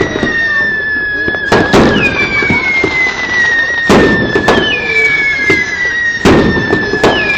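Fireworks display going off: loud bangs from bursting shells, about five of them, over long whistles that slide down in pitch and start again every two to three seconds.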